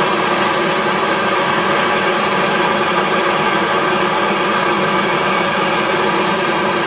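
A handheld electric tool running steadily, an even whirring hiss with no change in speed, while a hole is being made for a seat mounting bolt.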